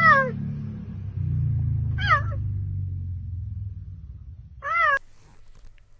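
Cheetah chirping three times, short high calls falling in pitch, over a low purr that fades out about four seconds in.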